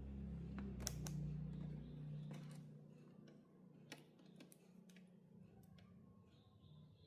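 Scattered light clicks and taps, with a low hum underneath that fades away about two and a half seconds in.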